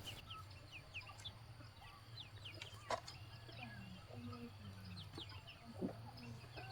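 A flock of chickens: many quick, high, falling chick peeps throughout, with now and then a hen's short low clucks, and one sharp click about three seconds in.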